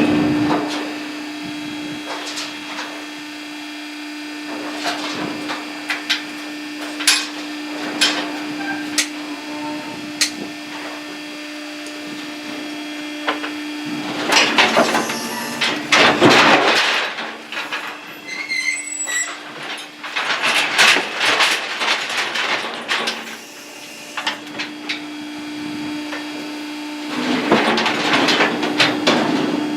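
Knocks, clanks and rattles of cattle-handling equipment as heifers are worked through for pregnancy checking, with three louder stretches of clatter, over a steady hum.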